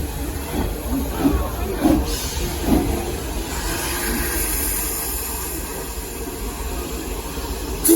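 Frisco Silver Dollar Line steam train #504 running, heard from aboard: a steady low rumble of the moving coaches with irregular creaks and knocks, and a hiss of steam that swells in the middle.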